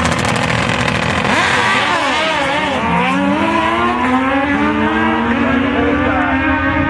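Drag-racing motorcycle engines running loud. One engine's pitch drops sharply about two seconds in, then climbs steadily as it revs up, over other engines running at a steady pitch.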